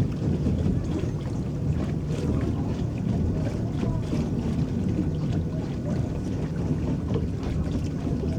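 Water lapping and swishing against an electric boat as it moves steadily across a lake, over a low, steady rumble of wind on the microphone.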